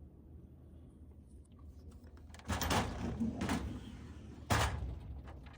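Part of a snack vending machine being pushed shut while it is being restocked: a sliding, rattling scrape lasting about a second and a half, then one sharp clunk as it closes.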